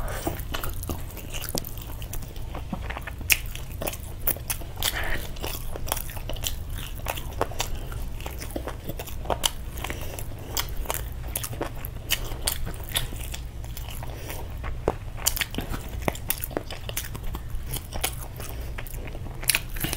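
Close-miked eating: chewing and biting meat off a spiced chicken leg held in the hand, with frequent sharp wet clicks and smacks. A steady low hum sits underneath.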